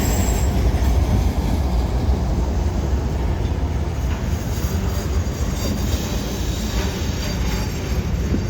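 CSX freight train rolling past close by: a steady rumble of steel wheels on the rails with a heavy low drone underneath.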